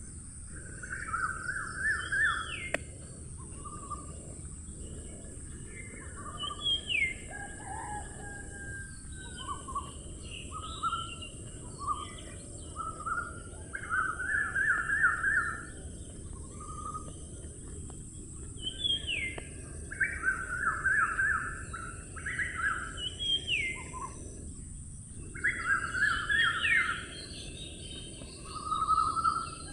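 Birds calling in repeated phrases of quick trilled notes and short upswept notes, coming in bursts every few seconds, over a steady high hiss.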